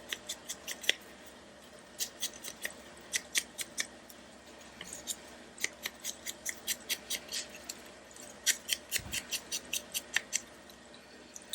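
Scissors snipping paper: several runs of quick, short snips with brief pauses between them.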